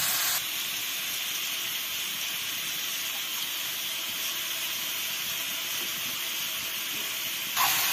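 Mushrooms sizzling in an iron wok over a wood fire: a steady hiss that drops a little just after the start and comes back up near the end.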